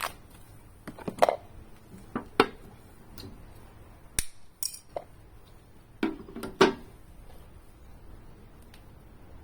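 A handful of separate clinks and knocks of hard objects, like metal tools or parts being picked up and set down, about six in all, with the loudest near the start and about two-thirds of the way in.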